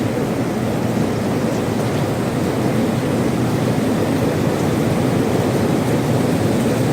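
Heavy rain pouring steadily, an even, dense rush of noise with no single drops or claps standing out.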